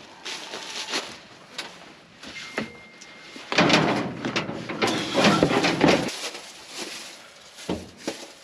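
Dishes and cutlery clinking and scraping at a meal table: a few separate clinks at first, then a louder, busier stretch of clatter about halfway through.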